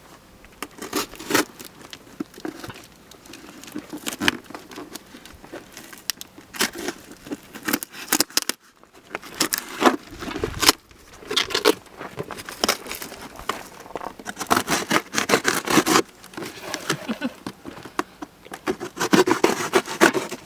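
Cardboard packaging being cut, torn open and handled: irregular scraping, crackling and tearing noises with sharp clicks and knocks, pausing briefly about nine seconds in.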